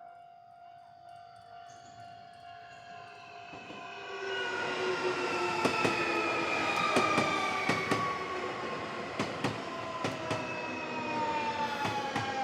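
Nankai Main Line electric train approaching and passing: quiet at first, then from about four seconds in a rising rumble with a motor whine that slowly falls in pitch, and sharp wheel clacks over the rail joints.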